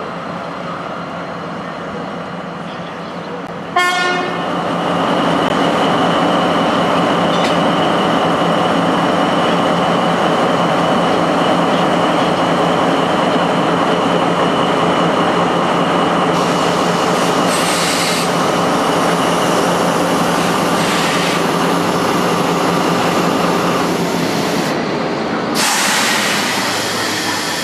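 A train running on the rails, with steady rumble and rail noise. About four seconds in, a brief sharp tone starts a much louder stretch of running noise that holds steady for about twenty seconds, then changes and fades near the end.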